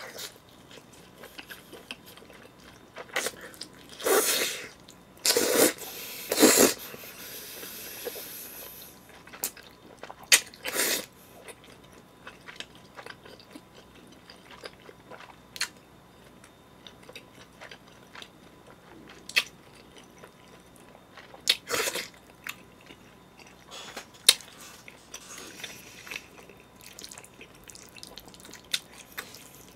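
Close-miked eating sounds of a man biting into and chewing pizza: scattered mouth clicks and crunches, with a few louder bursts about four to seven seconds in.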